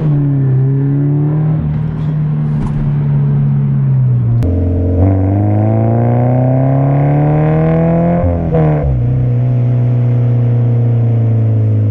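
Subaru BRZ's 2.0-litre flat-four engine through an Invidia N1 cat-back exhaust, running at cruise. About four seconds in it steps down, then rises steadily in pitch under acceleration for about three seconds. It drops sharply at a gear change and settles back to a steady, slowly falling drone.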